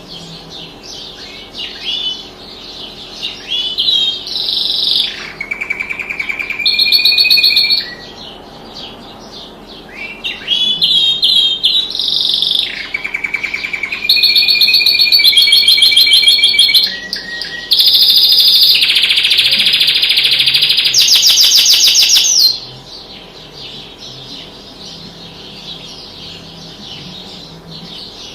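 A songbird singing in phrases: short rising chirps, then loud, rapid trills and rattling runs, the longest about two-thirds of the way through, which stop suddenly and give way to softer chirping. A faint steady hum runs underneath.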